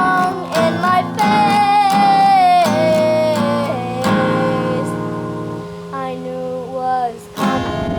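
A child singing a song with acoustic guitar accompaniment, long held notes over plucked chords.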